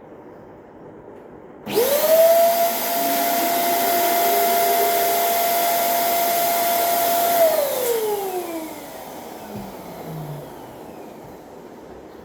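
Electric balloon inflator switching on about two seconds in, its motor whine rising quickly to a steady pitch over a loud rush of air while it fills a balloon. It runs for about six seconds, then winds down with a falling whine as it is switched off.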